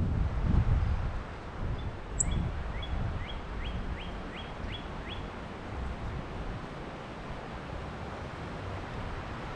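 Wind gusting over the microphone with a low rumble, strongest in the first second. A bird whistles a quick series of about eight down-slurred notes, roughly three a second, starting about two seconds in and stopping about five seconds in, with one sharp high chip near its start.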